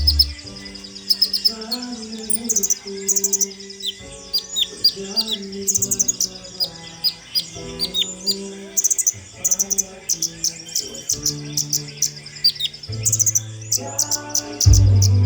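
Kolibri ninja sunbird singing a fast run of high, sharp chirps and trills, over background music of held low notes that swell near the end.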